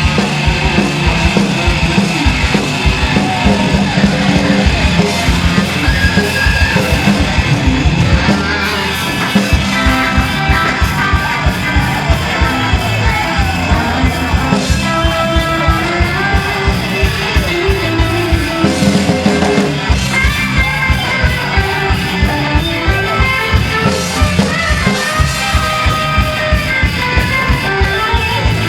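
Live punk rock band playing loud, with electric guitar over a driving drum beat. The bass and drums drop out briefly about eight seconds in, then the beat comes back.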